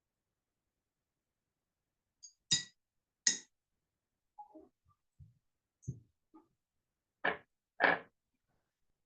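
A handful of short knocks and clinks. Two sharp ringing clinks come a little under a second apart about two and a half seconds in, a few faint small clicks follow, and two louder, duller knocks come near the end.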